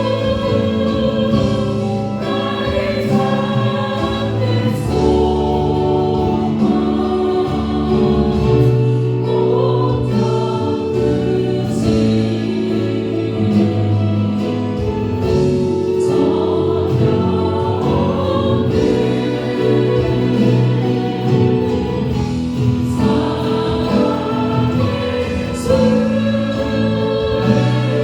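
A worship band and singers performing a Christian praise song together, with held chords over a steady bass and regular cymbal hits.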